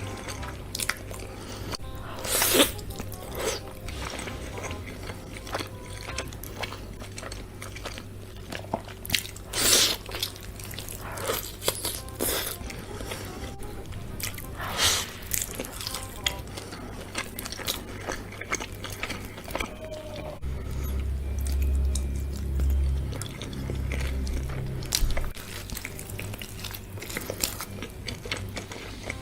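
Close-miked eating of whole chicken: chewing broken by sharp crunching bites every few seconds, over steady background music.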